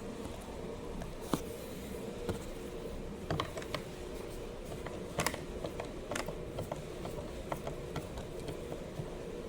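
Scattered light clicks and knocks of hand work on a Stihl MS 250 chainsaw as its cover is taken off, over a steady low hum.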